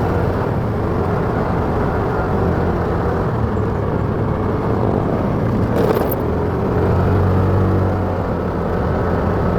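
Motorcycle engine running steadily while riding, with road and wind noise. The engine note grows louder for a second or so about seven seconds in, and there is a short sharp noise just before six seconds.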